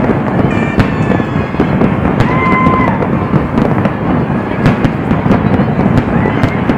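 Aerial fireworks display: a continuous barrage of booms and crackling bursts, with a short high whistle about two and a half seconds in.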